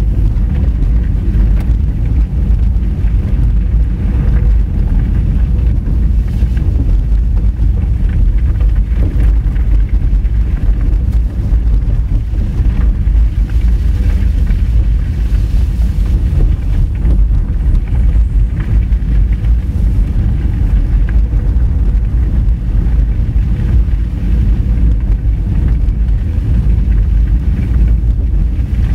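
Honda Fit driving along a mountain forest road: a steady low rumble of tyres on the road surface and engine, picked up by a vehicle-mounted action camera.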